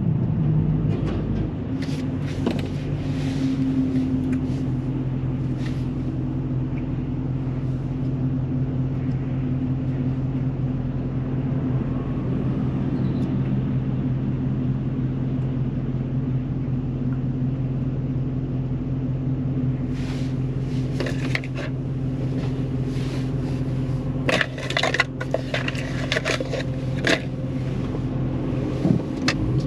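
Dodge Charger Scat Pack's 6.4-litre 392 HEMI V8 idling steadily, heard from inside the cabin. A few light, irregular clicks and taps come in the last third.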